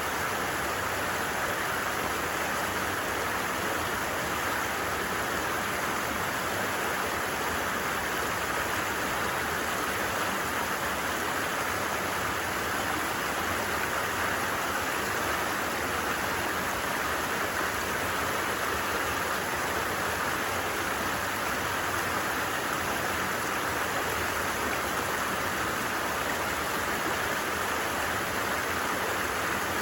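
Steady, even rushing and babbling of a flowing stream, unchanging throughout.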